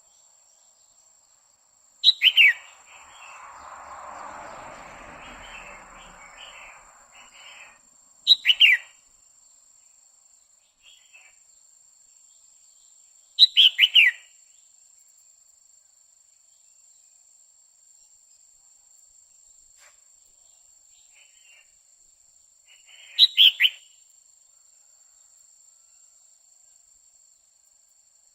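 Female red-whiskered bulbul calling: four short bursts of two or three quick downslurred notes, several seconds apart. A soft rushing noise follows the first burst for a few seconds.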